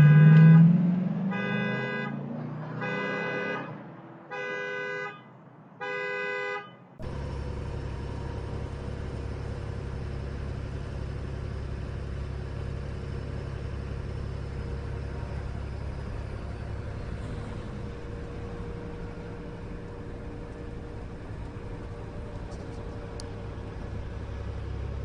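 Car horn sounding in four blasts of about a second each, then a sudden switch to the steady low rumble of a car driving along.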